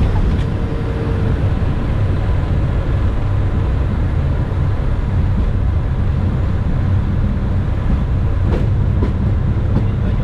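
Airliner on its landing roll just after touchdown: a loud, steady rumble of engines and wheels on the runway, with a few faint clicks near the end.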